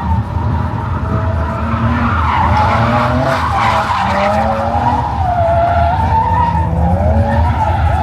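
A car drifting: tyres squealing in long wavering screeches over the engine held high in the revs, the squeal loudest a few seconds in.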